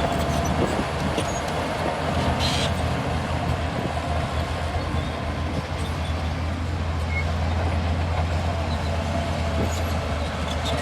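Heavy diesel earthmoving machinery, such as a bulldozer, running steadily with a deep engine hum, and a brief high hiss about two seconds in.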